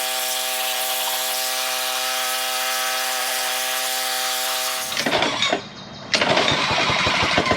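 Pressure washer running, a steady whine over the hiss of the spray. About five seconds in it gives way to a rough, rhythmic chugging, broken by a brief drop about a second later.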